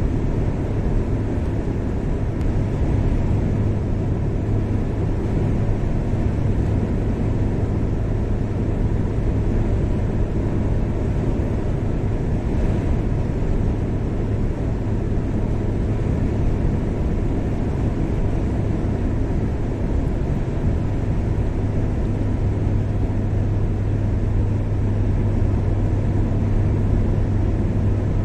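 A car driving steadily along a highway: a constant low drone of engine and tyre noise that holds an even pitch and level throughout.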